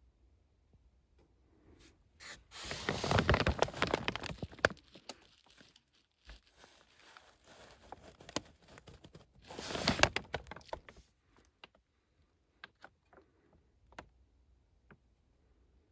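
Rustling and scraping in two loud bursts, about three seconds in and about ten seconds in, with scattered clicks and taps between them and after.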